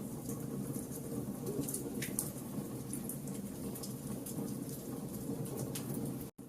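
Log fire burning in a fireplace: a steady low rumble with frequent sharp crackles and pops. The sound drops out for an instant near the end, then carries on a little quieter.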